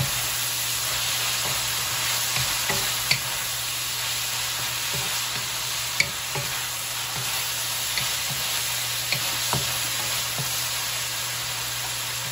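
Shredded beef sizzling in hot oil in a wok, the marinade liquid cooked off so it now fries, while a wooden spatula stirs it, scraping and tapping on the pan now and then, with a sharper knock about six seconds in.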